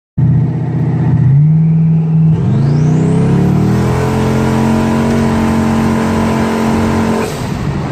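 Twin-turbo 6.0-litre LQ4 V8 of a drag-raced Datsun 240Z at full throttle, rising in pitch in two pulls with a high whine climbing alongside, then holding a steady high note. It drops off near the end.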